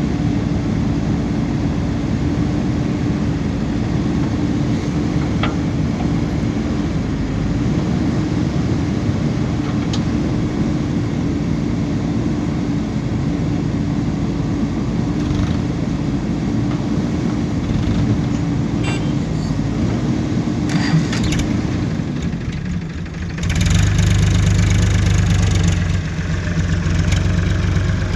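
Diesel engine of a JCB 3DX backhoe loader running steadily under work. Near the end the sound changes abruptly to a louder, deeper running.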